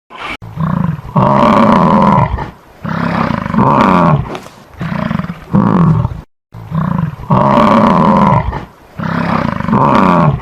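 An animal giving a series of loud, deep calls with short gaps between them.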